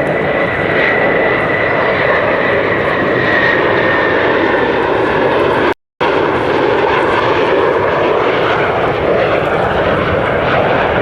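Concorde's four Olympus 593 turbojets, a loud steady jet noise with a high whine that slowly drops in pitch over the first few seconds. The sound cuts out completely for a moment about six seconds in, then the jet noise carries on.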